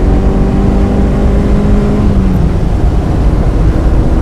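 1995 Mazda Miata's 1.8-litre four-cylinder engine running hard, heard from inside the car over a loud low rumble. Its steady note drops away about two and a half seconds in and comes back near the end.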